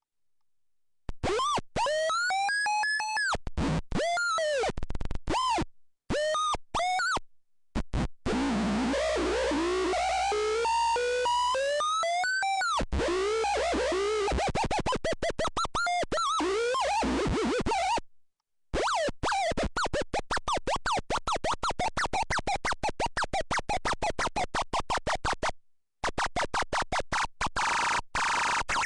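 Electronic synthesizer-like tones that glide up and down in pitch, chopped into a rapid stutter and cutting out abruptly to dead silence several times.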